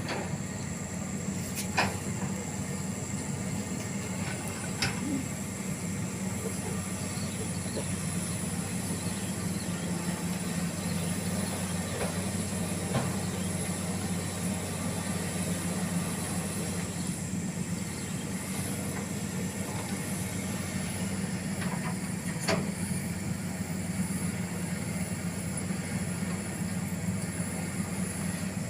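A large engine running steadily at idle with a low, even hum, and a few sharp metallic clicks or taps scattered through it.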